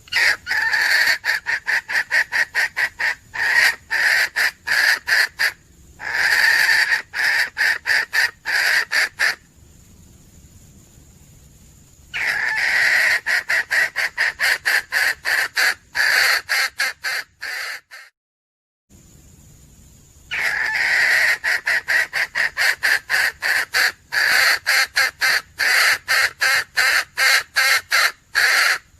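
Junglefowl hen calling: a rapid run of short clucking notes, about four a second, in bouts of several seconds separated by short pauses, with one brief dead cut about two-thirds of the way through.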